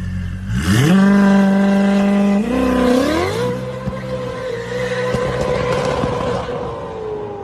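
A high-performance car engine revs up sharply from a low idle about half a second in and holds at high revs. Its pitch climbs again about three seconds in, then sinks slowly near the end.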